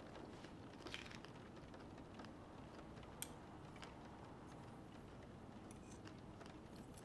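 Near silence with a few faint clicks from eating pastry, and one sharper click about three seconds in.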